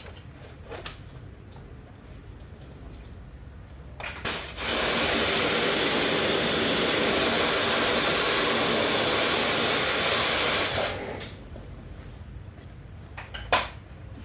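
A high-pressure spray hisses steadily for about six seconds, starting a few seconds in and cutting off near eleven seconds. It is the loudest sound here. Before and after it there are light handling clicks, and a sharp knock comes near the end.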